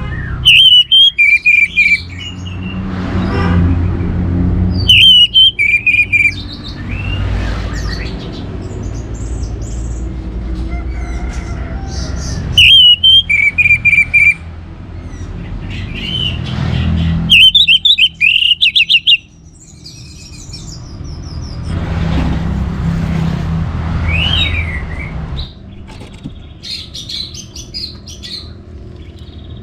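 Orange-headed thrush singing loud, varied phrases in four bursts a few seconds apart, with fainter high chirps between them and a steady low rumble underneath.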